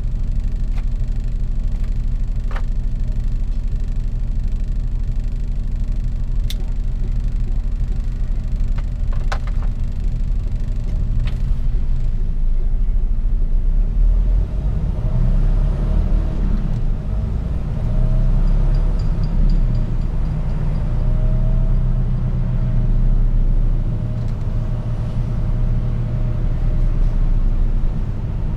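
Mercedes-Benz Actros truck's diesel engine running with a steady low rumble as it drives, heard from the cab. There are a few sharp clicks in the first half, and the rumble thickens and grows a little louder about halfway through.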